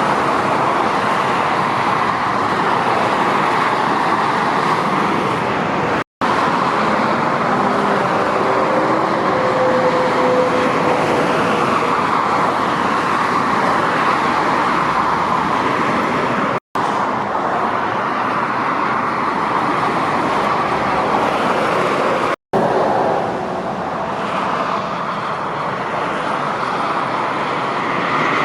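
Lorries and cars driving past on a motorway: a steady rush of tyre and engine noise. It drops out for an instant three times, at cuts between shots.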